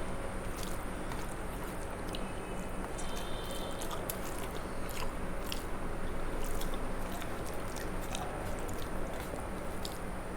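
A person chewing and eating a mouthful of rice and curry, with many short wet mouth clicks, over a steady background hum.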